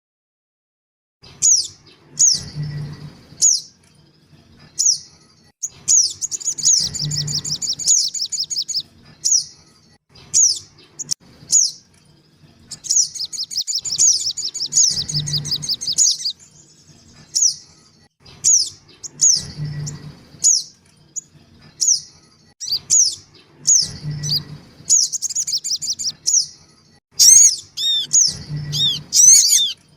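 Recorded calls of little spiderhunters (sogon), used as a bird-trapping lure: sharp high chirps repeated at irregular gaps, broken twice by long fast chattering runs of notes. A low thump recurs about every four and a half seconds under the calls.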